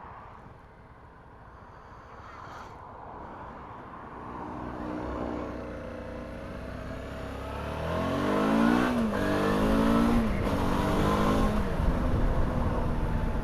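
Motorcycle engine accelerating through the gears, its pitch climbing, then dropping at a gear change about nine seconds in and again shortly after, getting louder throughout. Wind rumble on the microphone builds as the speed rises.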